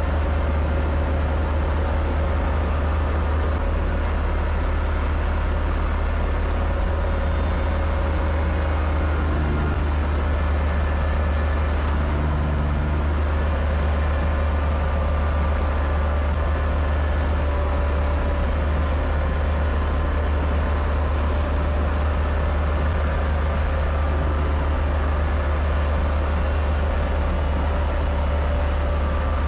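Kubota tractor's diesel engine running steadily under snow-clearing work, a constant low drone with a steady tone above it.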